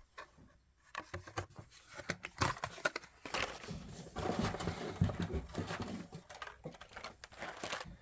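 Blister-carded Hot Wheels cars being handled: plastic blisters and card backs crinkling and clacking, starting about a second in and densest in the middle.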